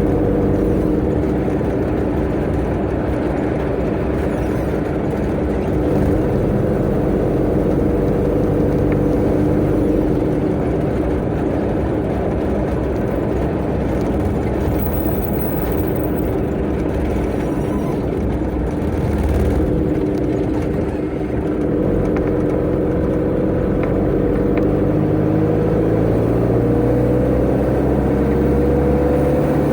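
Tata Ace mini truck's turbo engine running hard at speed, with steady road and tyre noise. The engine note dips briefly around two-thirds of the way through, then rises steadily over the last several seconds as the truck picks up speed.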